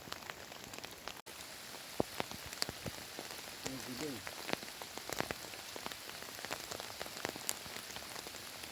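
Heavy rain falling as a steady hiss, dense with sharp separate drop impacts. The sound breaks off for an instant about a second in.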